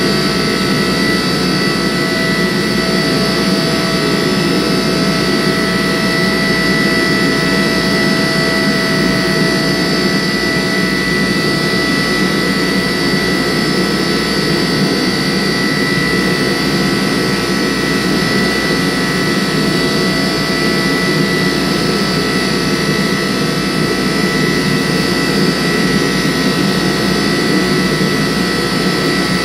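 Forge running steadily while it heats the steel billet: an even rushing noise with a few steady high tones on top, with no hammer or press strokes.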